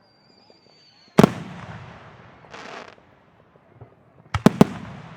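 Aerial fireworks shells bursting: a thin whistle, then one loud bang with a rolling tail about a second in, a short hiss, and three quick bangs close together near the end.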